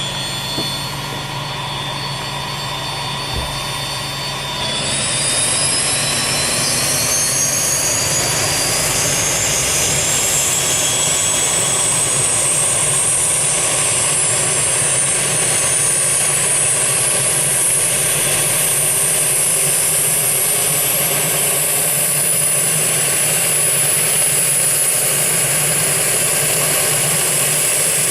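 Business jet's turbofan engines whining steadily; about five seconds in they get louder and the whine starts to climb in pitch, rising slowly as the engines spool up.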